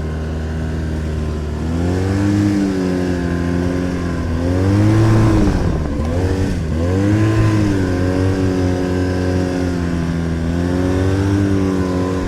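Arctic Cat snowmobile engine running under load, its pitch rising and falling several times as the throttle is worked. The track is spinning in soft snow on an uphill climb.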